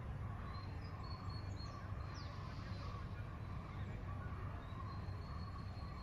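Outdoor park ambience: birds calling repeatedly, with thin high whistles and a short falling note about two seconds in, over a steady low rumble of background noise.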